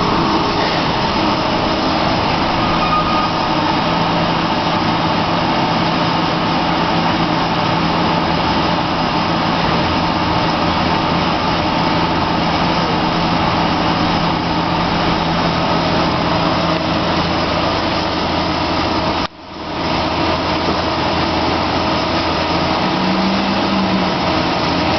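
Cosen SH-700DM semi-automatic band saw running with its blade moving: a steady mechanical hum and whine over a broad hiss. The sound drops out briefly about nineteen seconds in, then comes back.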